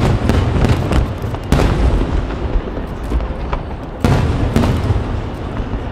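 Aerial firework shells bursting overhead: three heavy booms, one right at the start, one about a second and a half in and one about four seconds in, each trailing off in a low rumble, with lighter pops and crackle in between.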